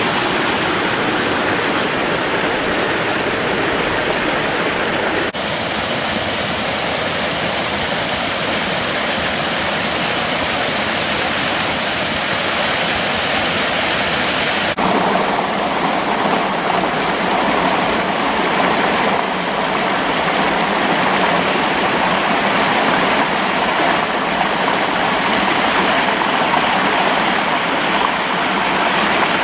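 Creek water flowing, a steady loud rushing noise. Its tone changes abruptly about five seconds in and again about fifteen seconds in.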